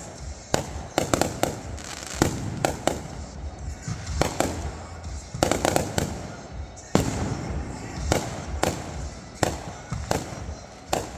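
Fireworks going off in rapid, irregular succession: many sharp bangs and crackles, some single and some in quick clusters of several.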